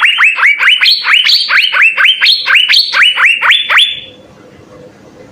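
Asian fairy-bluebird (cucak biru) singing a rapid run of loud, sharply falling notes, about five a second. The run stops about four seconds in.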